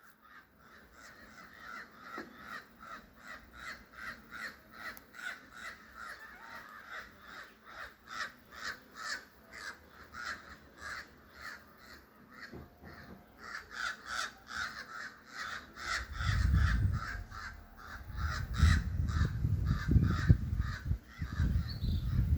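A bird calling over and over in short harsh calls, about two a second, with a brief pause about halfway through. In the last third a loud low rumble joins in and is louder than the calls.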